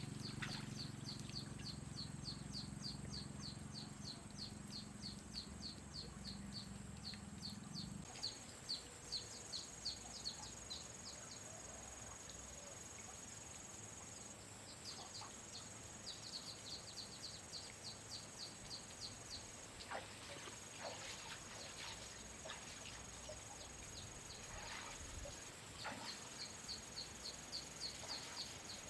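Insects calling: a rapid, even run of high chirps, about five a second, that pauses and resumes, over a steady high-pitched buzz. A low hum runs underneath for the first several seconds, then stops.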